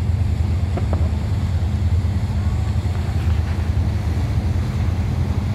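Steady low drone of a river cruise boat's engines, heard on board, with faint ticks about a second in.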